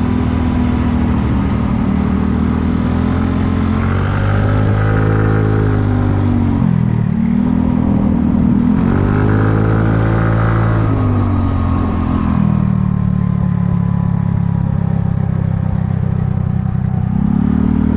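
Kymco People 250 scooter's engine and exhaust under way, the revs climbing and dropping back twice, then rising again near the end. The exhaust leaks have been patched with JB Weld high-heat epoxy.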